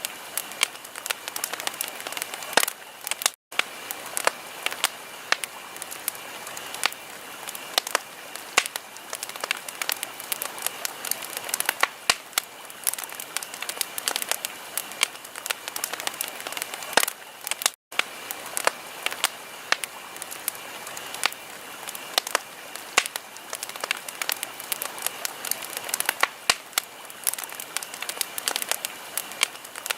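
Wood fire crackling in a fireplace: irregular sharp pops and snaps over a steady hiss. The sound cuts out for an instant twice.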